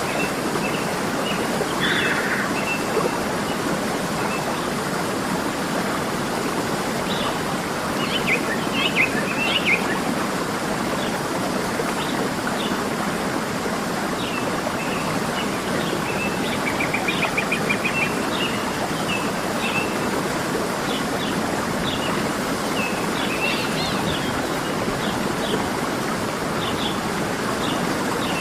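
Steady rushing of a waterfall, with small birds chirping over it at intervals and a quick trill about two-thirds of the way through.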